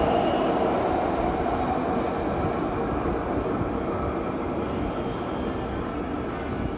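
Taipei Metro C321 train running through an underground station, its rumble slowly fading as it pulls away.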